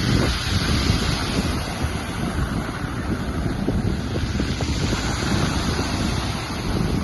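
Sea waves breaking and washing ashore in rough evening surf, with wind buffeting the microphone in a heavy, uneven low rumble.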